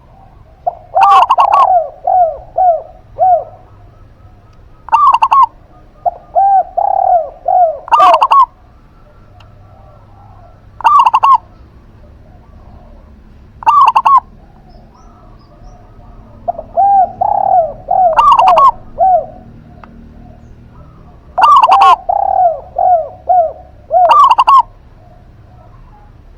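Doves cooing in short repeated phrases, each a loud note followed by a quick run of lower coos, with pauses of a second or more between phrases.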